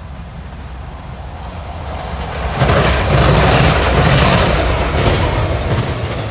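Freight train approaching with a rising rumble, then its locomotives rushing past close by about two and a half seconds in: a loud blast of engine and wheel-on-rail noise that eases off near the end as the cars follow.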